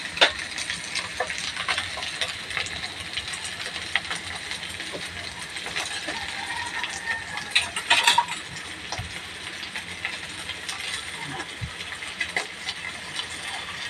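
Flaked tuna sisig frying in a wok: a steady sizzle full of small crackles and ticks, with a brief louder cluster of clicks about eight seconds in.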